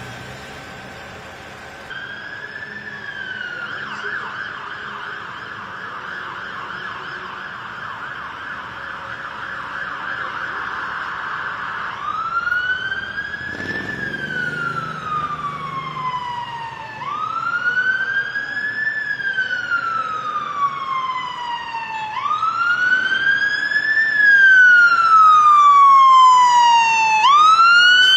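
Emergency vehicle siren, starting about two seconds in with a rapid yelp, then switching to a slow wail that rises and falls about every five seconds, growing louder.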